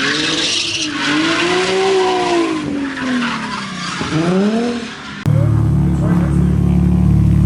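A car drifting: the engine revs rise and fall repeatedly over the hiss and squeal of sliding tyres. About five seconds in, the sound cuts abruptly to a loud, steady, low drone.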